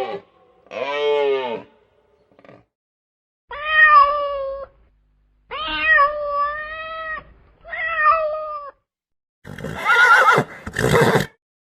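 Domestic cat meowing four times, each meow drawn out for about a second with gaps between. Near the end comes a harsher, noisier animal call.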